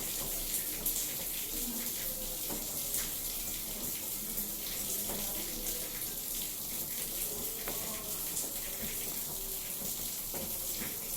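LG 6 kg front-loading washing machine mid-wash: water rushing and splashing inside the drum, a steady hiss.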